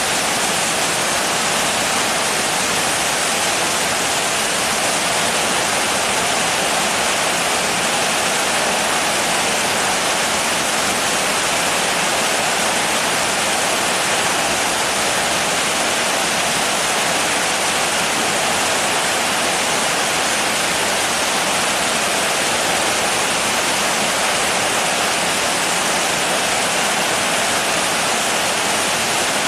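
Steady rain: an even, unbroken hiss that holds the same level throughout.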